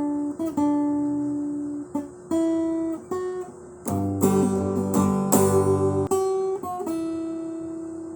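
Acoustic guitar music: single plucked notes ringing out and fading, with two fuller strummed chords near the middle.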